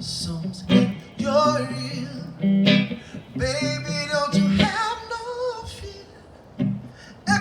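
Acoustic guitar played under a solo singing voice, in sustained, bending sung lines.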